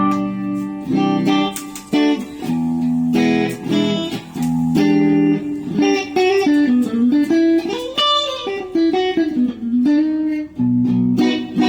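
PRS Custom 22 electric guitar played with a clean tone: ringing chords, then a phrase of single notes with string bends about halfway through, then chords again near the end.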